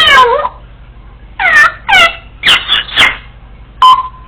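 Congo African grey parrot giving a run of short, loud, bark-like calls, each sliding down in pitch: one at the start, four in quick succession after a pause, and a brief sharp one near the end.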